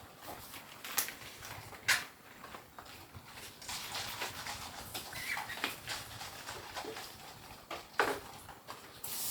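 A few sharp clicks and knocks, about four spread out at irregular times, with light rustling in between, as of household objects being handled.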